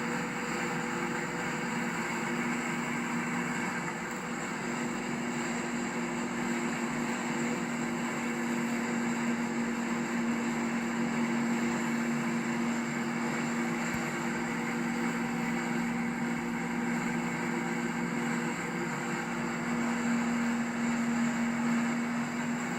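1965 Ford Fairlane 500's 289 cubic-inch V8 with custom dual exhaust cruising at about 67–68 mph: a steady engine drone with a constant low hum over road and wind noise.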